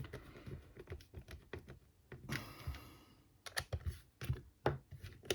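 Quick, irregular light clicks and taps of small parts being handled during hand reassembly of a cordless screwdriver, with a short hissing rustle a little over two seconds in.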